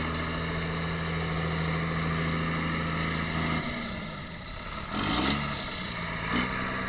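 Tractor's diesel engine held at high revs, then easing off a little past halfway and revving up and back down twice more. Two short rushing noises come with the later rev-ups.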